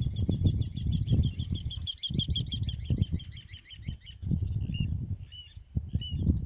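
A songbird singing a fast, high trill of about eight notes a second that stops about four seconds in, followed by a few single chirps. Beneath it, and louder, a low, gusty rumble of wind buffeting the microphone.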